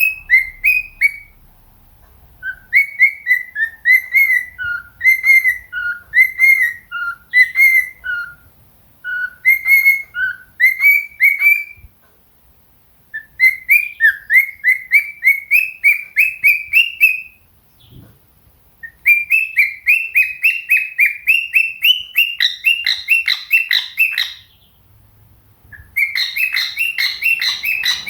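Cockatiel whistling its song: long runs of quick, clear whistled notes, many rising in pitch, in phrases broken by short pauses.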